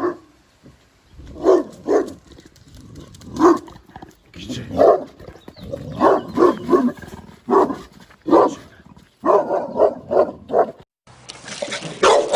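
Dog barking repeatedly: single and paired barks about a second apart, then a quick run of four barks near the end. Just before the end, the recording cuts to a different bark clip.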